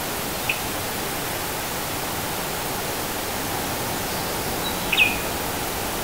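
Steady outdoor background hiss with two short bird calls: a faint chirp about half a second in, and a sharper call about five seconds in that drops quickly in pitch and ends on a brief level note.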